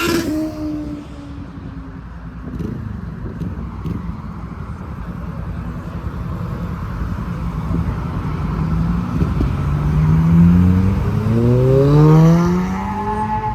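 Car engine being revved: a rev falls away at the start, the engine idles with a low rumble, then it is revved up in one long rising climb of about four seconds before dropping back near the end.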